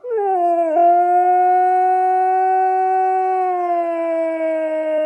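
A puppy howling: a short falling note, then a long drawn-out howl held from about a second in that slowly sinks in pitch.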